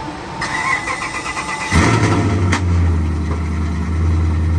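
Truck engine cranked over by the starter, catching about two seconds in and then running loudly, with a single sharp backfire bang just after it fires. It was just fitted with new spark plug cables.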